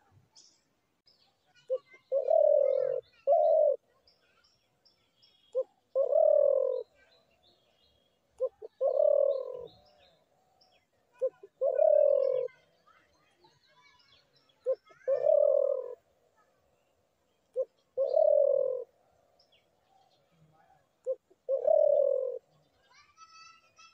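Spotted dove cooing: seven repeated phrases, each a short note followed by a longer, lower coo, about every three seconds. Faint chirps of small birds are heard behind it.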